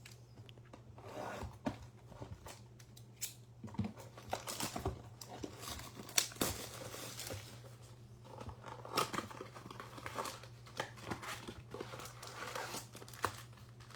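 Plastic wrap crinkling and cardboard tearing as a Topps Fire baseball card blaster box is opened, in irregular rustles and sharp crackles.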